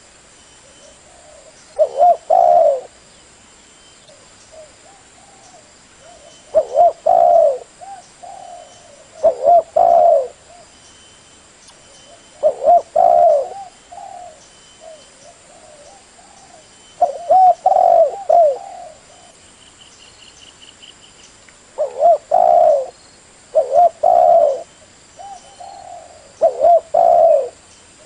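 Spotted dove cooing. It repeats short phrases of a few notes each, every few seconds.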